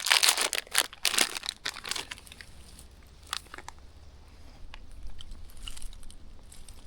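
Plastic snack packaging crinkling and crackling as it is handled and opened. It is loudest in the first two seconds, then quieter with scattered crackles.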